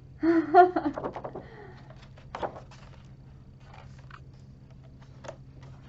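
Books being handled: rustling, soft knocks and clicks as hardcover books are shifted and flipped through, with one louder knock about two and a half seconds in. A short vocal sound comes right at the start, and a steady low hum runs underneath.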